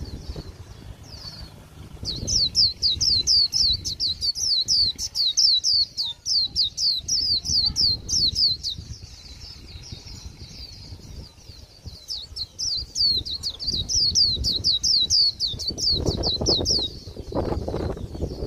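A white-eye singing its rapid 'líu' song: fast runs of high, short notes that each slide downward, about eight to ten a second, in two long bouts starting about two seconds in and about twelve seconds in. It is a song the keeper calls bland for an end-of-season bird. Low knocks and rumbling sit underneath.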